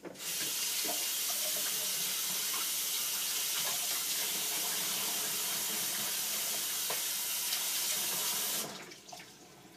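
Kitchen faucet running steadily into the sink, with a few faint clicks of handling, then shut off near the end.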